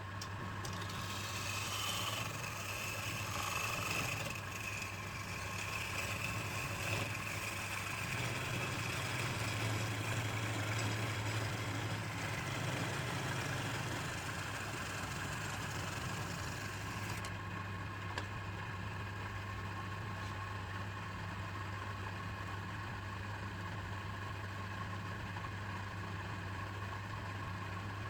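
Wood lathe's electric motor running with a steady hum. A high hiss over it drops away about two-thirds of the way through.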